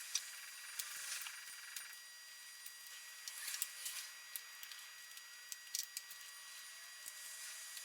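Faint scattered clicks and taps of hands working the plastic fuel injector electrical connectors and their retaining clips loose, with a faint steady high whine underneath.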